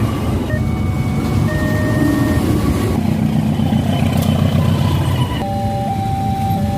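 Container freight train passing the level crossing with a loud, steady rumble, over the crossing's electronic warning alarm. The alarm sounds as steady tones that change pitch, then alternates between two pitches from about halfway through.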